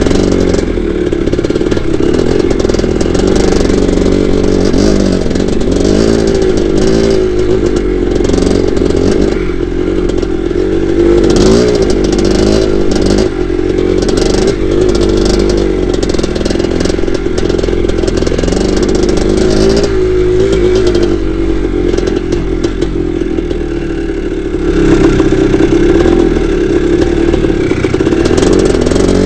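1982 Maico 490 single-cylinder two-stroke dirt bike engine running under way, its pitch rising and falling again and again as the throttle is worked, with scattered knocks and clatter over it. It gets louder near the end.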